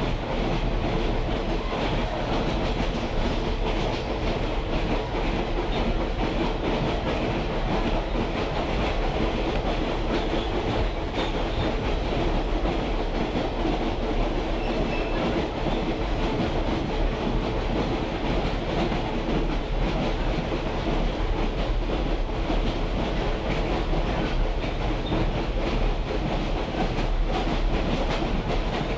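Railroad caboose rolling along behind a diesel locomotive: steel wheels running on the rails in a steady, unbroken rumble.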